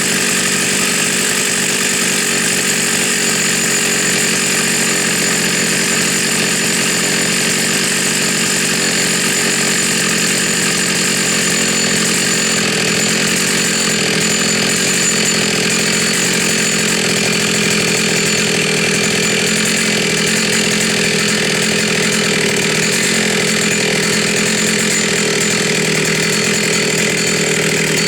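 Jonsereds Model 52 chainsaw's 49 cc two-stroke engine running steadily at high revs, without letting up.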